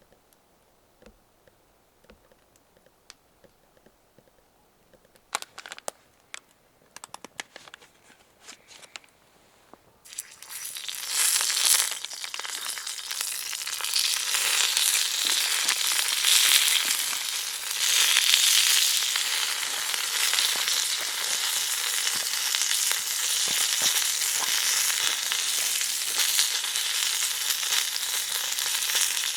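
Quiet at first, with a few light clicks and taps, then about ten seconds in food starts sizzling loudly in a hot pan over the wood fire, a steady frying hiss.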